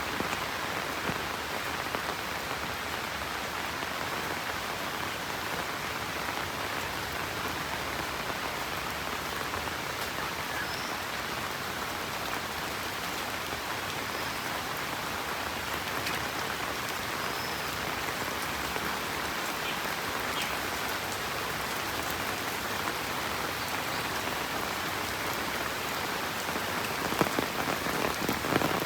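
Steady monsoon rain falling and pattering on surfaces, an even hiss of many drops. A few short faint high chirps come through around the middle, and near the end the patter turns louder with sharper individual drops.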